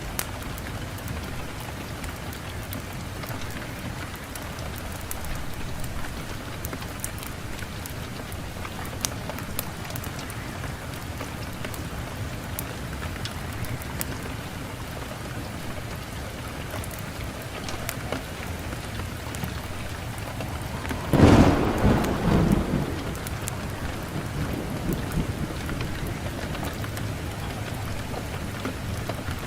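Wood fire burning in a fireplace: a steady hiss with frequent sharp crackles and pops. About two-thirds through comes a short, louder surge of crackling and low rumble.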